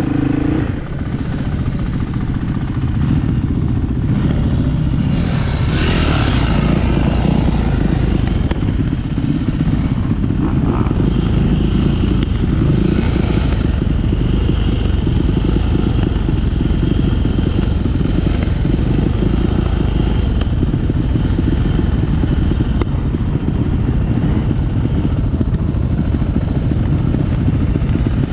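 Dirt bike engine running continuously while being ridden, with a brief rush of noise about six seconds in.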